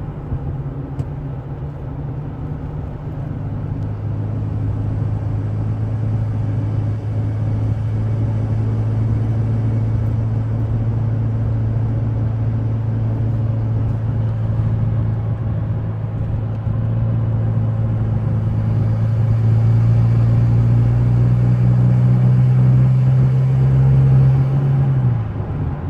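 Interior sound of a 2016 Chevrolet Colorado's 2.8-litre Duramax four-cylinder turbodiesel, fitted with an S&B cold air intake, under way. A steady low engine drone climbs slowly in pitch and loudness, then drops suddenly near the end.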